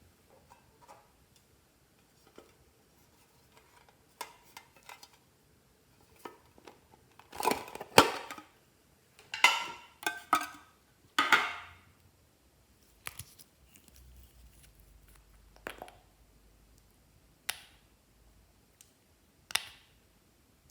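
Glossy slime being handled and mixed with add-ins: irregular sticky clicks, crackles and squishes, with a run of louder crackling squelches in the middle and single sharp pops near the end.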